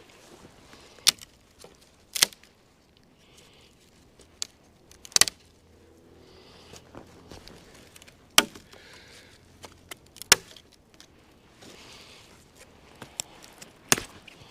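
Wood being broken up for firewood: about half a dozen sharp cracks, spaced irregularly a second to a few seconds apart, with faint rustling in between.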